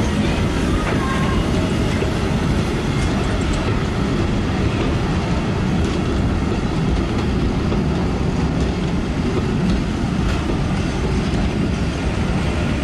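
Steam train running along the track: a steady, dense noise from the moving train.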